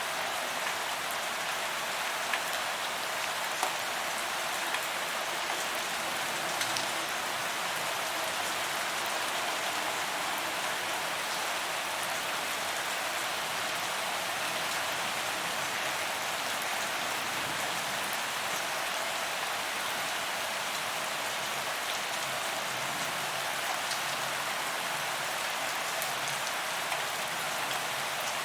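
Steady rain falling on pavement, an even hiss with scattered sharp drop ticks.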